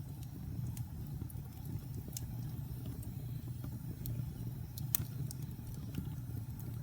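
Wood fire burning in a fireplace: a steady low rumble of flame with scattered sharp crackles and pops from the logs, the loudest pop about five seconds in.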